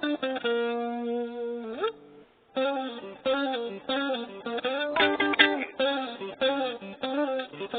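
A cheap maple-body guitar being played. It starts with a held note that slides up in pitch, then after a brief break comes a steady run of picked notes, about three a second.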